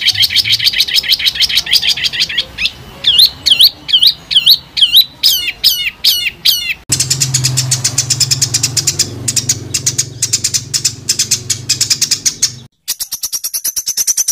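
Songbird song recorded for tutoring competition birds, in spliced segments. A dense, fast trill is followed by a run of about a dozen quick sweeping whistled notes that come closer together. The recording then cuts abruptly to a high, rapid trill over a low hum, and near the end to another even higher rapid trill.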